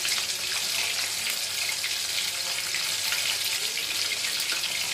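Coated chicken pieces frying in oil, a steady sizzle with many small crackles.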